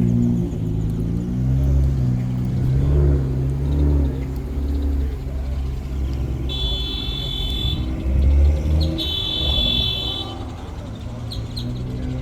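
Car engines running at low revs, with pitch rising and falling as an engine revs near the start and surges again about eight seconds in. Two short, high-pitched tones sound about seven and nine seconds in.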